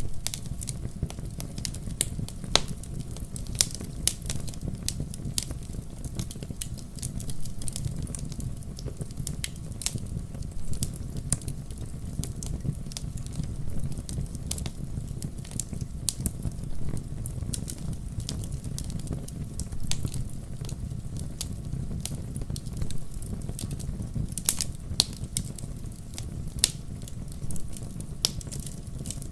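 Wood campfire crackling: irregular sharp pops and snaps over a steady low rumble of the flames.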